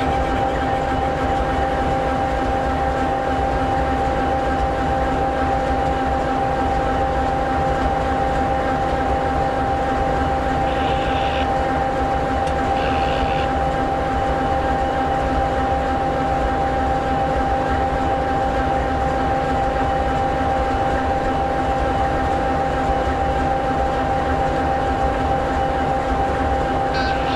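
EMD 16-710G3B sixteen-cylinder two-stroke turbocharged diesel engine of an SD60E locomotive idling steadily: an even rumble with a constant whine over it. Two brief high sounds are heard about eleven and thirteen seconds in.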